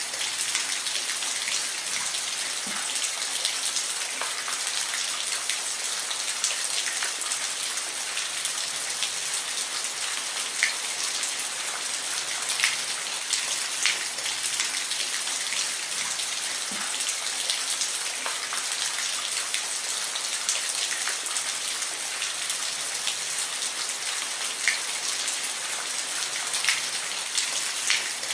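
Steady rain falling, a constant high hiss with scattered sharp drops landing close by.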